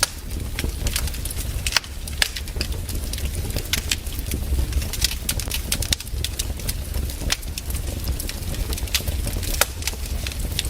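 Fireplace fire crackling: a steady low rumble of the flames with frequent sharp pops and snaps at irregular moments.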